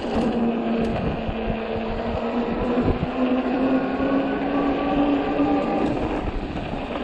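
Rear hub motor of a 48 V fat-tire e-bike whining steadily under power, its pitch rising a little with speed and dipping near the end. It runs over a steady rushing noise of tyres and wind.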